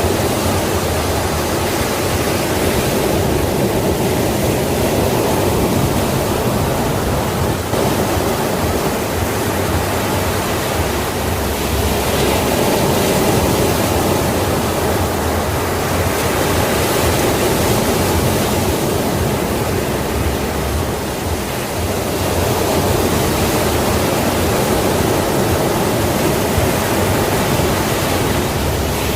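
Sea waves breaking and washing ashore in a continuous noisy surge, swelling and easing slowly every few seconds.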